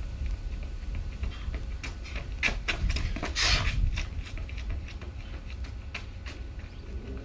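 Footsteps of a person sprinting a shuttle run, heard as scattered sharp strikes over a steady low wind rumble on the microphone, with a louder burst of noise about three and a half seconds in.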